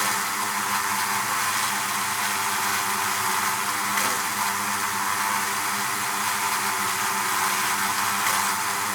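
A beehive full of honeybees buzzing together: a steady, dense hum with a low droning pitch under a hiss of many wings.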